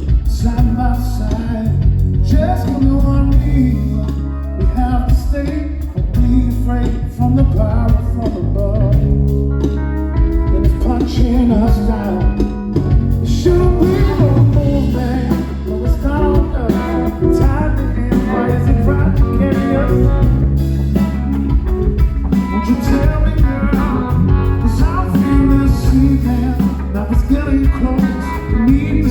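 Live blues-rock band playing a song: guitar and a steady beat with a strong bass line, and singing over it.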